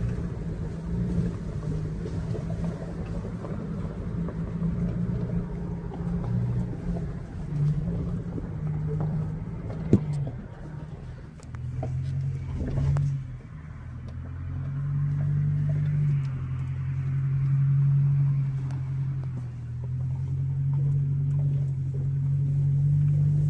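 Subaru Outback running as it drives slowly over dirt trails, its engine hum rising and falling in pitch with the throttle. A single sharp knock about ten seconds in.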